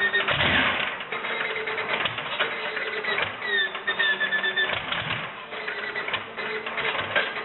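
Tractor engine being started: a rapid, irregular mechanical clatter with a high whine that comes and goes.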